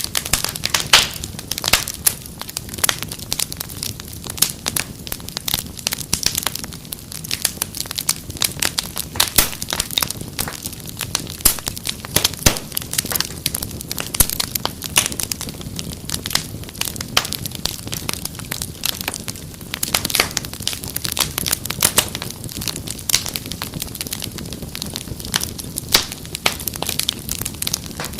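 Fireplace fire crackling: a dense, irregular stream of sharp pops and snaps over a low steady rumble.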